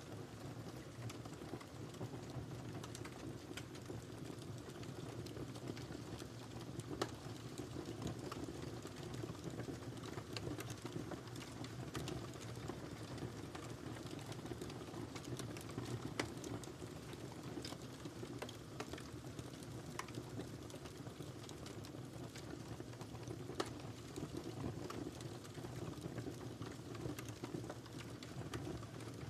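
Wood fire burning in a fireplace: a steady low rumble of the flames with frequent small crackles and pops, and a few louder snaps.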